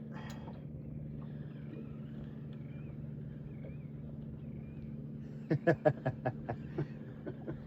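Small boat's engine idling with a steady low hum. About five and a half seconds in, a quick run of about ten short pitched pulses, loudest at first and fading away.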